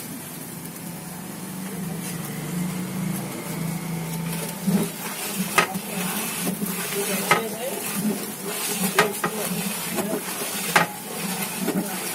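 Red chilli powder and spices sizzling in hot oil in a large metal cooking pot. A long metal ladle stirs the masala, scraping and knocking against the pot repeatedly from about four seconds in.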